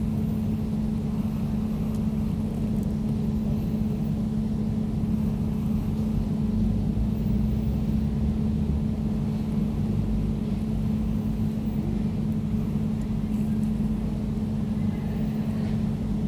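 Air conditioner running steadily: a constant low hum with a droning tone over a rumbling rush of air.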